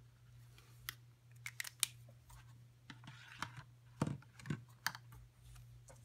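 Scattered small clicks and taps of pens being handled on a desk, with a short scratchy stretch of pen writing on a journal page about three seconds in.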